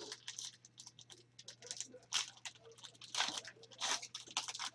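Trading card pack wrapper crinkling and cards sliding and rustling as they are handled, in a run of short irregular scratchy strokes with a few louder rasps.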